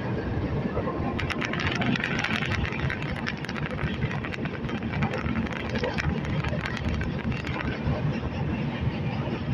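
Passenger express train running along the track, heard from aboard: a steady rumble of the coach's wheels and running gear, with a stretch of rapid clicking and rattling from about a second in until near the end.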